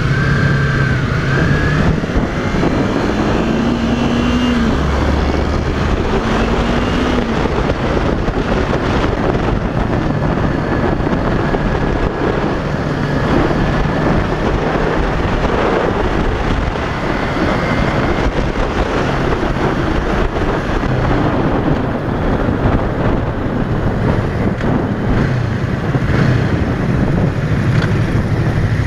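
Yamaha YZF-R3's parallel-twin engine under way, rising in pitch a couple of times a few seconds in as it pulls up through the revs, under steady wind noise on the microphone.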